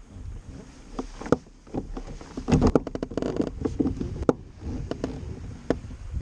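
Irregular sharp knocks and clatter of gear on a fishing kayak, with a louder cluster of knocks a few seconds in.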